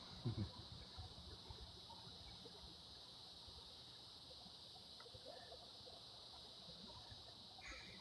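Near silence: a faint steady background hiss, with one soft low thump just after the start.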